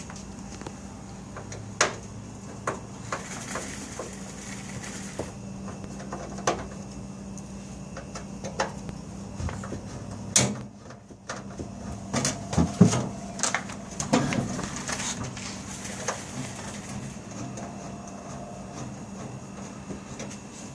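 Scattered clicks and knocks from the screws and back panel being taken off an old refrigerator with a nut driver, over a steady low hum.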